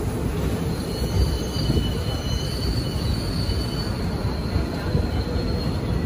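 MEMU passenger train running on the line: a steady rumble of wheels on track, with a thin, high wheel squeal coming in about a second in and holding.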